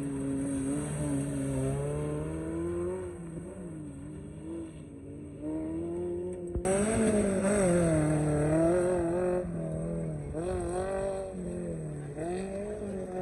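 Maruti Suzuki Gypsy rally 4x4 engines revving hard on a mud track, the pitch rising and falling with throttle and gear changes. The sound changes abruptly about halfway through, where a louder, closer engine takes over.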